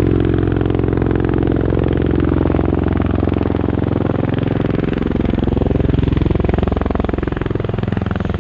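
MV-22 Osprey tiltrotor in helicopter mode, nacelles vertical, making a roll-on landing. Its two proprotors give a loud, steady, rapid beating drone, and the pitch bends from about five seconds in.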